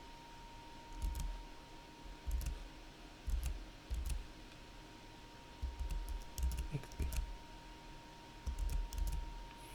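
Computer keyboard keys and mouse buttons clicking in short scattered clusters, each stroke carrying a low desk thud, as edges are selected and marked with shortcuts in a 3D modeling program. A faint steady whine sits underneath.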